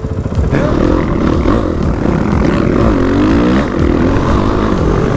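Dirt bike engine running under way, its pitch changing with the throttle, dipping and rising again about three seconds in.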